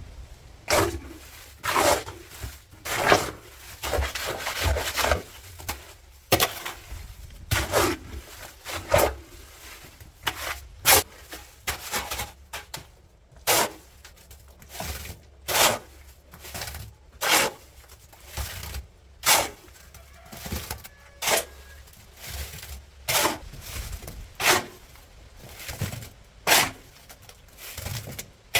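Repeated short scraping strokes of a hand tool working mortar and brick, about one every one to two seconds, sharp and gritty.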